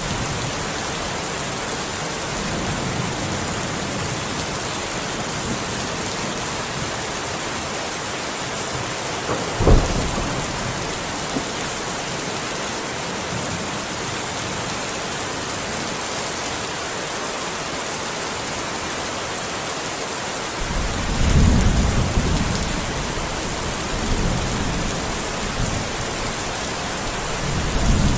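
Steady, dense rain falling throughout. A sharp thunderclap cracks about ten seconds in, and low rolling thunder rumbles a little after the two-thirds mark and again near the end.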